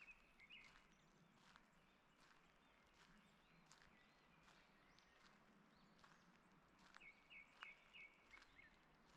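Faint footsteps along a forest path, with small birds chirping: a quick run of high chirps near the start and another about seven seconds in.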